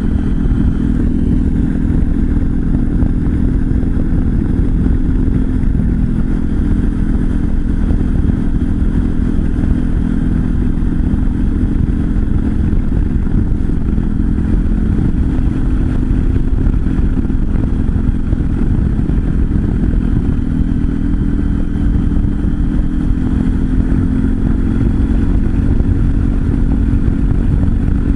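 Honda Cross Cub 110's air-cooled single-cylinder four-stroke running through a Moriwaki Short Monster full exhaust while riding at a fairly steady speed, with heavy wind noise on the microphone.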